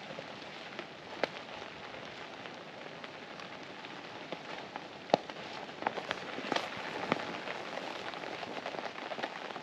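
Steady rain falling on the fabric of a hot tent, with scattered single louder drops.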